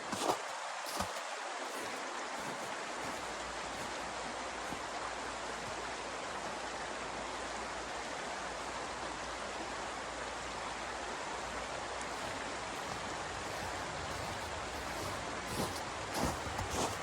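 A steady, even hiss, with a few light clicks or knocks just after the start and again near the end.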